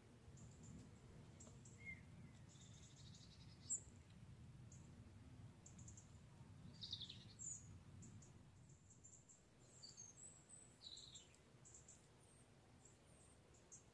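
Faint outdoor ambience: small birds giving scattered short, high chirps, a couple of them falling in pitch, over a low steady rumble.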